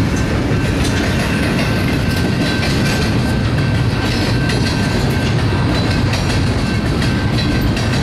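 BNSF double-stack container train's cars rolling past: a steady rumble of steel wheels on rail with scattered clicks from the rail joints.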